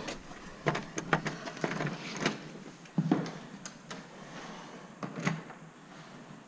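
A doorknob turned and an exterior door opened, then footsteps and knocks on a bare floor: a string of sharp clicks and thumps, the loudest a little after one second and around three seconds in, with another cluster about five seconds in.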